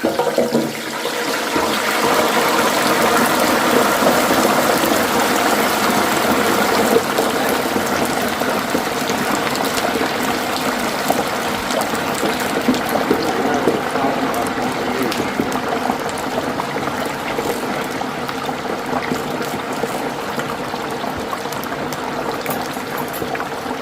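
Hot oil in a turkey fryer bubbling and sizzling hard as a whole turkey is lowered in. It builds over the first few seconds, then slowly eases off.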